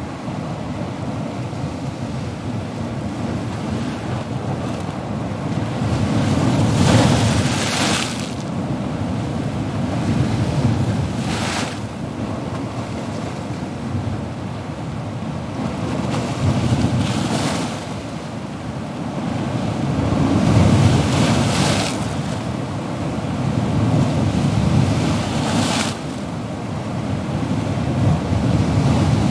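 Ocean waves breaking and washing onto shore, a continuous low surf rumble that swells and eases, with a hissing wash of foam every four to five seconds.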